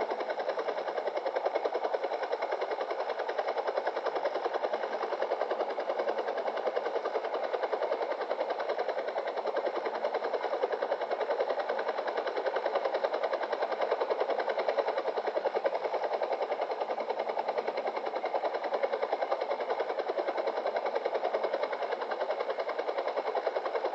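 A steady mechanical whirring noise with a fast, even flutter and no change in level.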